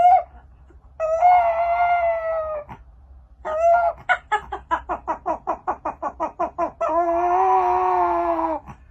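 An animal calling loudly in long, drawn-out, crowing-like calls. In the middle the calls break into a fast run of short stuttering notes, about five a second, and near the end comes one long, lower call.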